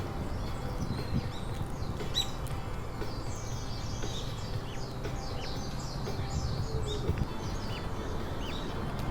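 Small birds chirping and twittering many times in quick, short notes, over a steady low background noise.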